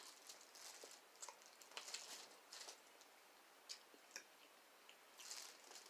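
Faint close-up chewing: soft, wet mouth clicks and smacks coming irregularly, a few each second.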